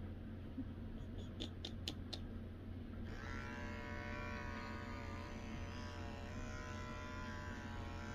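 Electric pet clipper humming steadily during a home dog grooming. About a second in come four quick sharp clicks, and about three seconds in a higher, buzzing tone joins the hum and holds.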